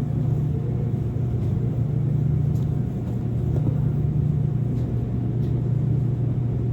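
Steady low rumble of a car in motion, unchanging throughout, with a faint steady hum above it.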